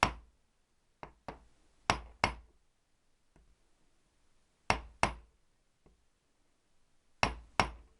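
About nine sharp taps, mostly in pairs, struck on the flats of a stuck nut on a Triumph T120R gearbox casing stud to slacken it; the nut has run out of thread on the stud.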